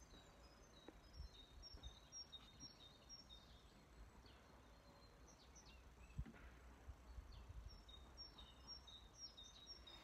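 Near silence with faint birdsong: small birds giving short, high chirps, many of them in the first few seconds and again near the end.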